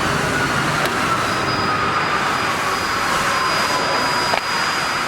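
CNC digital knife cutting machine running as it cuts foam sponge: a steady rushing noise with a thin motor whine that slowly falls in pitch, then drops suddenly about four seconds in, and a faint steady high tone.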